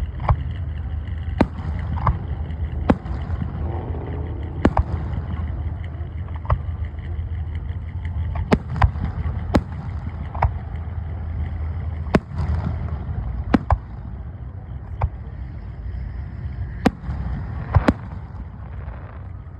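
An engine running steadily with a low rumble, with sharp pops or clicks scattered irregularly through it.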